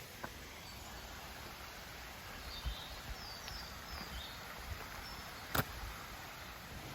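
Woodland ambience: the faint steady rush of a stream, a few short high bird chirps in the middle, and one sharp click about five and a half seconds in.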